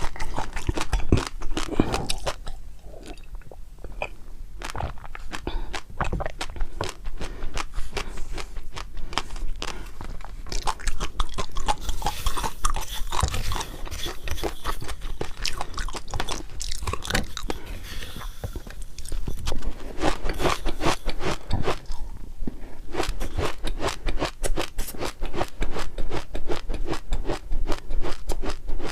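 Close-up chewing and crunching of food in the mouth, a dense run of crisp crackles that eases off briefly a few seconds in and again near the end.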